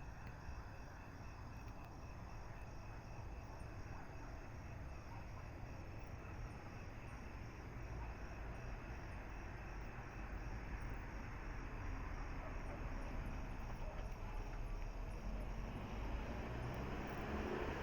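Insects trilling steadily, a faint pulsed chirring, over a low rumble that grows slowly louder toward the end.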